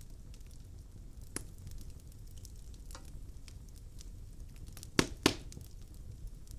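Wood logs burning in a fireplace: a low steady rumble of flame with scattered crackles, and two loud pops close together about five seconds in.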